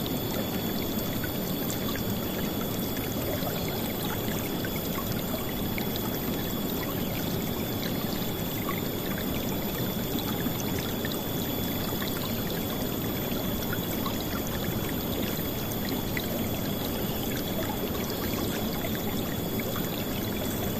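River water flowing and splashing in a steady, unbroken rush, loud and full-bodied. A few faint, thin high tones hold steady underneath.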